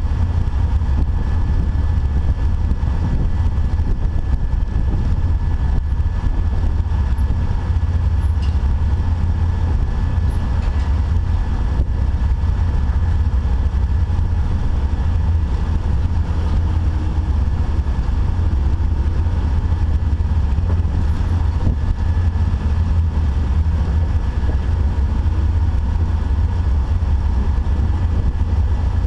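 Jeep 4x4 engine running steadily off-road, a continuous deep rumble with no sudden changes.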